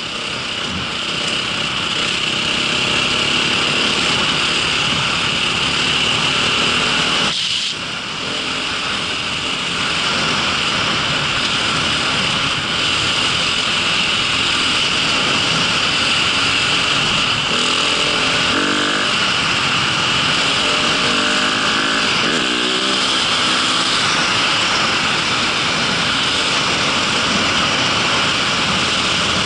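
A small vehicle's engine running steadily under way. The sound dips briefly about seven seconds in and wavers in pitch for a few seconds past the middle.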